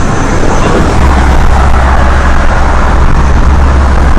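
Steady road noise inside a car's cabin as the car rolls along under tow, with a deep rumble that gets louder about a second in.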